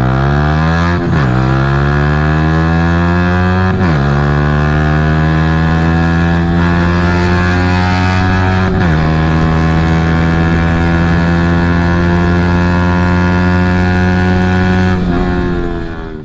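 Yamaha R15 single-cylinder motorcycle engine running through its exhaust under acceleration. The note climbs steadily, broken three times by short dips at gear changes.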